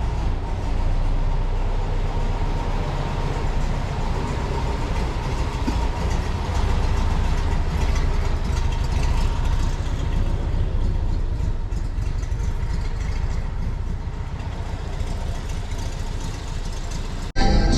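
Steady low rumble of a vehicle's engine and running noise, with no speech over it. It breaks off abruptly near the end and music comes in.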